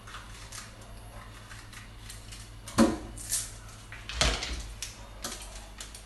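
Kitchen clatter: a few sharp knocks of things being handled and set down, the loudest about three seconds in and a short cluster a little after four seconds.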